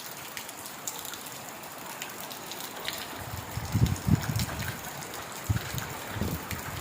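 Heavy rain falling steadily, with many small drops pattering. About halfway through and again near the end come short spells of low rumbling.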